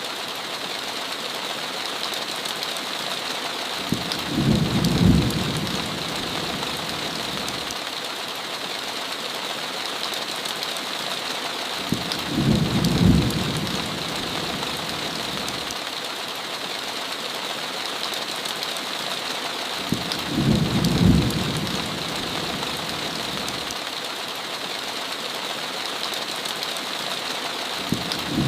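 Heavy rain hissing steadily, with a low thunder rumble that swells and fades three times, about every eight seconds at an even spacing, as in a looped recording.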